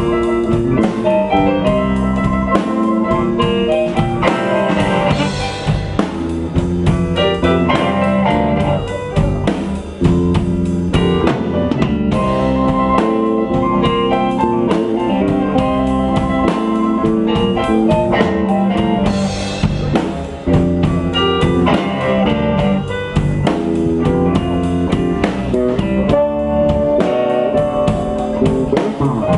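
Blues band playing an instrumental break: guitar over a drum kit, with no singing.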